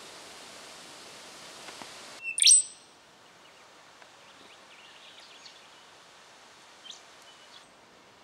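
Rufous songlark singing: one loud, sharp, sweeping phrase about two seconds in, followed by fainter scattered short notes. Before the phrase, a steady hiss cuts off abruptly.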